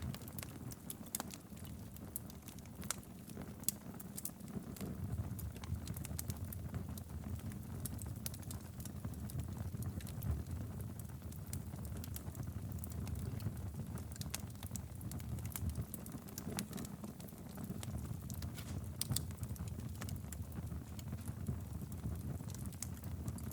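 Wood fire burning steadily in a fireplace, a low rumble of flame with frequent sharp crackles and pops scattered at irregular intervals.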